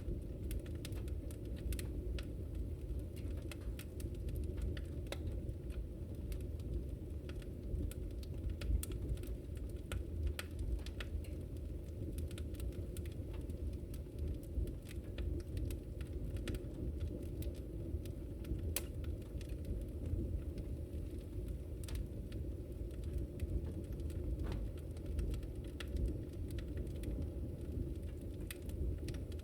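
Wood fire crackling in a fireplace: irregular small pops and snaps over a steady low rumble of burning.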